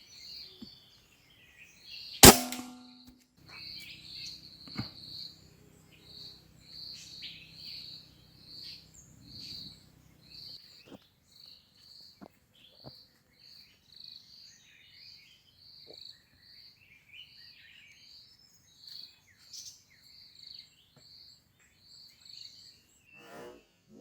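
A single sharp crack from a PCP air rifle firing about two seconds in, with a brief ringing tone after it. An insect chirps steadily in the background, a little under two high chirps a second.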